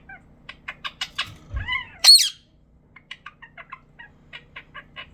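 Pet bird chattering in quick clicky chirps, with a single loud, shrill squawk about two seconds in, then more rapid chirps.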